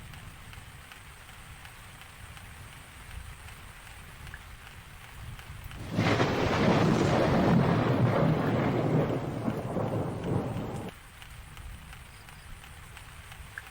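Thunderstorm recording: a loud thunderclap with rain comes in suddenly about six seconds in, rumbles for about five seconds and cuts off abruptly, over a low steady background rumble.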